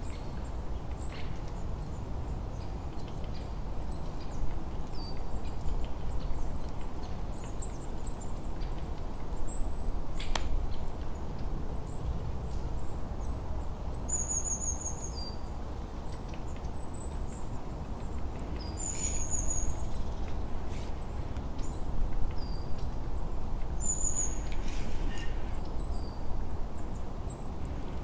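Birds chirping: scattered short high calls, with a quick falling call repeated about every five seconds, over a steady low background rumble.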